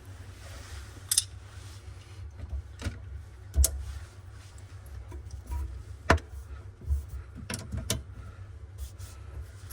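Scattered sharp clicks and knocks, like tools and fittings being handled during kitchen faucet replacement work, over a steady low rumble.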